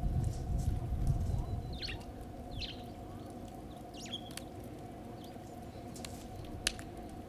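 Small birds chirping: a handful of short, high calls scattered over several seconds. Beneath them runs a faint steady hum, with a low rumble over the first second and a single sharp click near the end.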